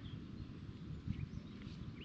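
Irregular low knocks and thumps, with a few faint short bird chirps over them.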